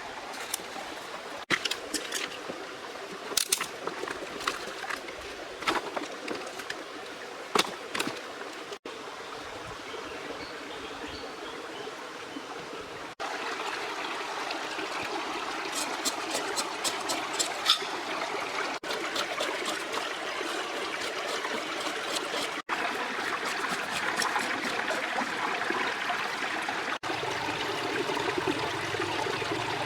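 Running, trickling stream water, a steady hiss, with scattered sharp clicks and snaps over it in the first half. The sound changes abruptly several times, growing louder and fuller in the second half.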